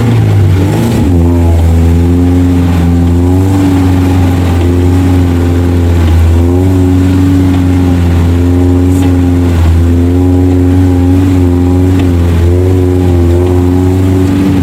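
Engine of an off-road Suzuki 4x4 running hard under load. Its pitch shifts about a second in, then holds fairly steady with small rises and dips.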